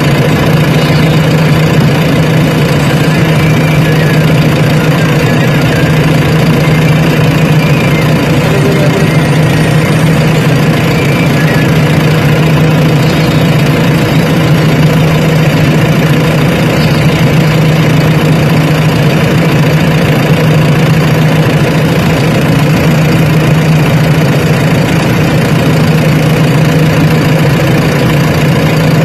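Diesel engine running loud and steady at one unchanging speed, with a strong low hum.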